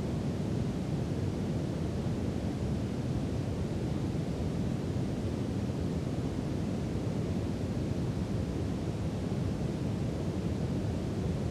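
Steady brown noise: an even, deep rumbling hiss, strongest in the low end and fading toward the highs, with no changes or events.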